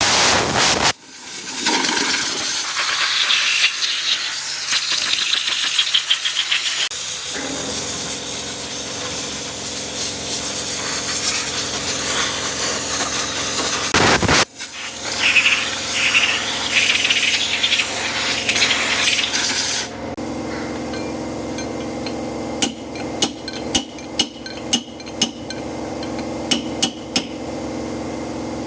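Hissing for several seconds, then a steady hum, with a run of sharp taps near the end.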